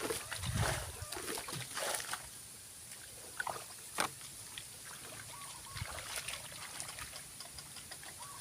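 Water splashing and sloshing in shallow water, busiest over the first two seconds, then scattered small clicks and knocks, one sharper knock about four seconds in.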